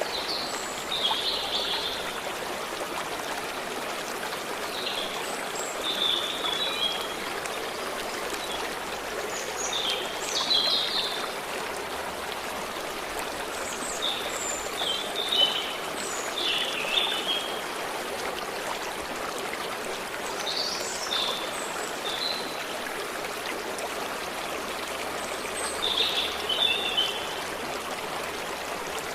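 Forest stream flowing steadily, with birds singing short chirping phrases every few seconds over the running water.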